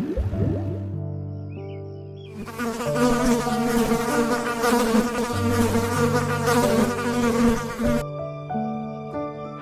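Insect buzzing, a dense wavering buzz that starts about two seconds in and stops sharply near the end, over soft background music with held bass notes.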